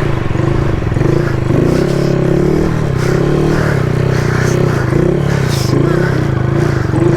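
Honda Grom's small single-cylinder engine revving up and down, its pitch rising and falling every second or so as the throttle is worked through a wheelie circle.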